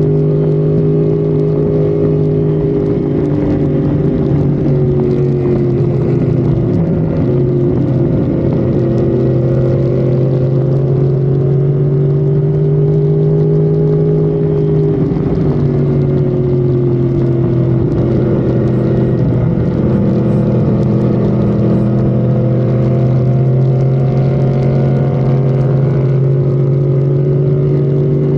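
Honda Civic FD's engine, heard onboard, droning steadily at high highway speed. Its pitch dips twice, about a quarter of the way in and again around the middle, then slowly climbs again.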